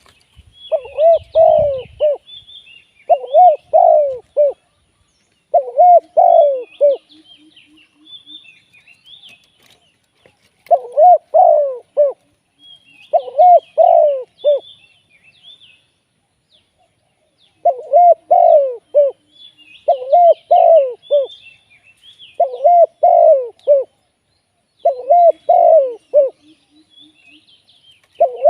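Spotted dove cooing: nine repeated phrases of three or four low coo notes each, coming in runs of two to four with short pauses between. Small birds chirp faintly and higher in the background.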